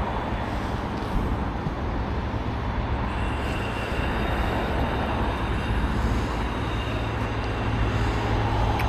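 Steady vehicle running noise with a low, even hum underneath.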